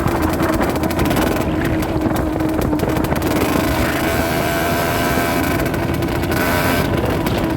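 Rieju Drac 50 moped's small two-stroke engine running under way at fairly steady revs, its pitch rising and falling only slightly.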